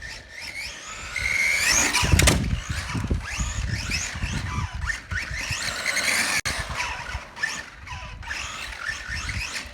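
Electric motor of a CEN Ford Puma RC rally car whining up and down in repeated rising sweeps as the throttle is worked, with tyre noise on asphalt and a louder burst about two seconds in.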